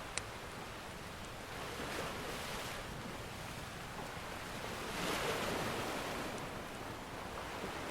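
Ocean surf washing in, swelling about two seconds in and again, louder, about five seconds in. A wood fire gives one sharp crackling pop just after the start and a few faint ticks later.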